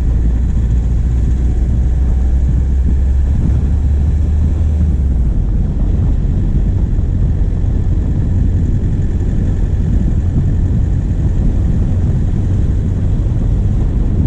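Diesel engine of a vehicle driving steadily, picked up close from a camera on the bonnet, with a low drone that steps up in pitch about five seconds in, over steady wind and road rush.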